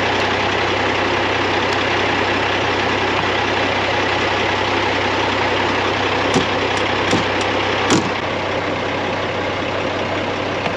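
Semi truck engine idling steadily, with a few sharp clicks or knocks about six to eight seconds in, after which the deepest part of the rumble drops away.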